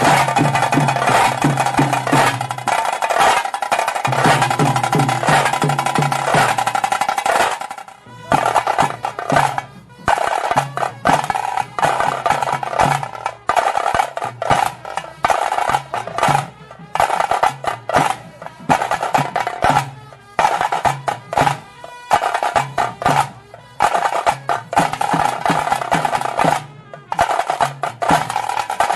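Tase drums beaten in fast, rapid strokes: the drumming that accompanies a Pili Nalike tiger dance. Unbroken for the first several seconds, then in short runs of strokes with brief gaps.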